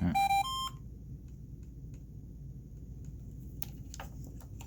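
Golden Big Bird's Talking Bingo toy giving a few short electronic beeps at stepping pitches, over within the first second, followed by a couple of faint clicks near the end.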